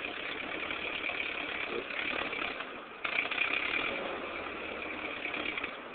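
1949 Ford 8N tractor's four-cylinder flathead engine idling steadily as it warms up, now running much better after its wiring fault was fixed. It gets louder about three seconds in.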